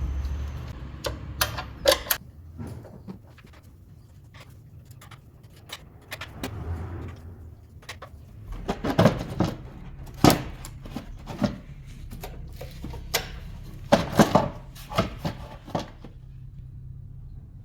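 Hand tools clinking and clattering against metal engine parts in scattered clusters of sharp clicks, over a steady low hum.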